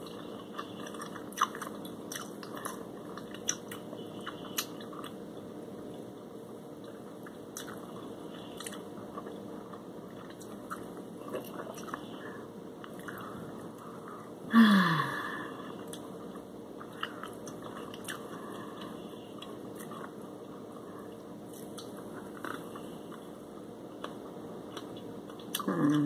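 A person chewing crinkle-cut French fries and fried shrimp close to the microphone: soft crunching with many small scattered clicks over a steady low hum. About halfway through, a brief louder voice sound falls in pitch.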